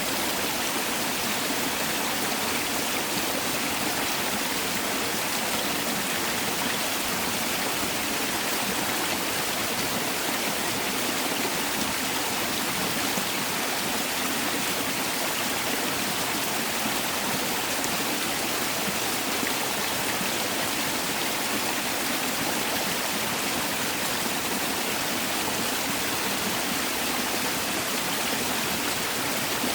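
Mountain valley stream rushing over rocks, a steady even sound of flowing water.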